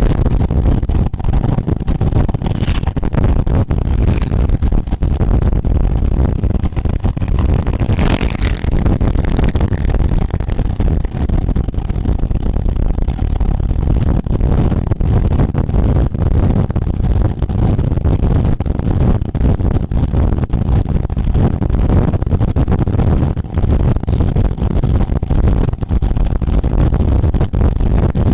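Wind buffeting the microphone of a camera riding along in a road bicycle race: a loud, steady low rumble with a rushing hiss above it.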